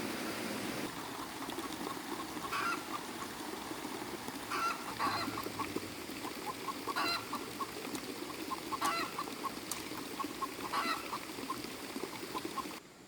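Farm poultry calling: a louder honking call about every two seconds over a run of short, quick notes, with a steady background noise. It all cuts off sharply just before the end.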